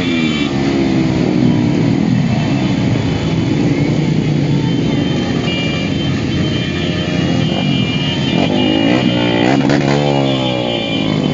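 Many motorcycle engines running and revving together as a caravan rides, several engine pitches overlapping and rising and falling.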